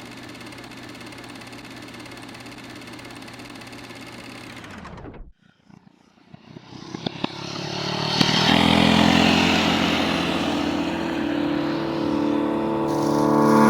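Small gas engine running steadily, cut off abruptly about five seconds in; then a louder engine sound builds over a couple of seconds and runs on at a high steady level.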